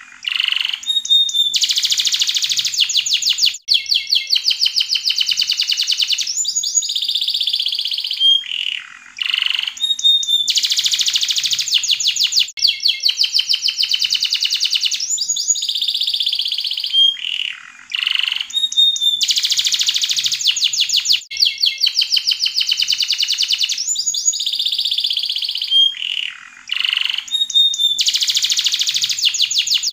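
Yellow canary singing a long continuous song of rapid trills and rising and falling whistled notes, with brief pauses between phrases. The same sequence of phrases repeats about every nine seconds.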